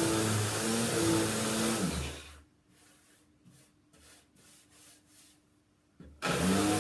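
An electric motor, from a vacuum cleaner or sander, running loudly with a wavering whine. It is switched off about two seconds in and winds down to a faint hum. Near the end there is a click, and it starts up again with its pitch rising.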